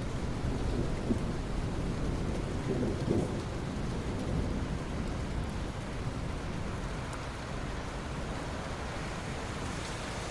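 Rain falling steadily on open sea water, a continuous even hiss. A low rumble sits under it in the first half and eases off about halfway through.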